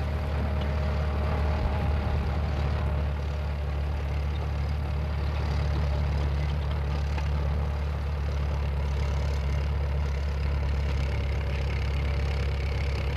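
A heavy engine running steadily at an even pace, a deep continuous drone with no change in speed.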